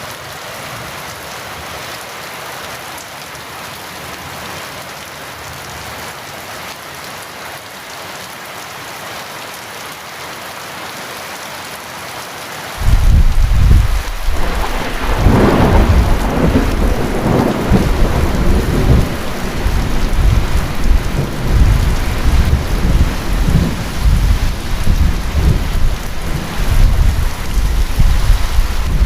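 Heavy rain falling steadily. About 13 seconds in, thunder breaks in suddenly, peaks a couple of seconds later and keeps rumbling low and loud under the rain.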